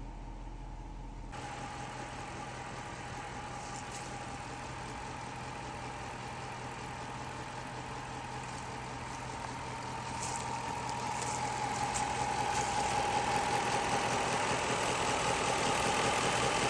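2006 Chrysler 300C engine running steadily with a constant whine over it, growing louder over the last several seconds.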